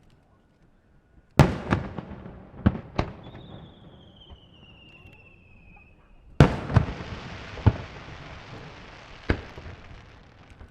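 Aerial firework shells bursting: a quick cluster of four booms, then a high wavering whistle gliding down in pitch. About six seconds in comes a big burst, followed by a long crackling hiss and more booms.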